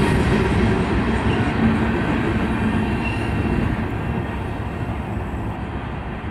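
Freight train of Herzog ballast hopper cars rolling over the rails, a steady rumble and rattle of wheels and car bodies that fades as the end of the train moves away.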